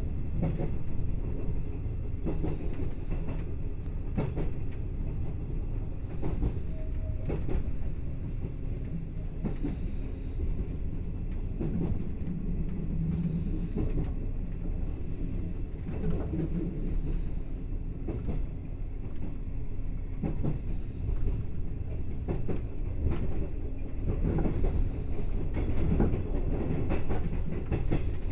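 381 series electric train running along the line, heard from inside its rear cab: a steady rumble of wheels on rail, with the clack of wheels passing over rail joints at irregular intervals.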